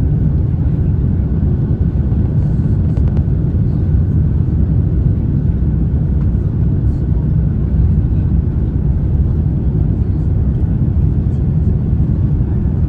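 Steady low rumble of engine and airflow noise in a Boeing 787-9 cabin during the climb after takeoff.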